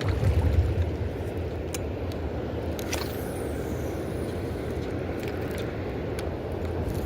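Steady low rumble of fast river water rushing, with wind buffeting the microphone in the first second and a few faint clicks.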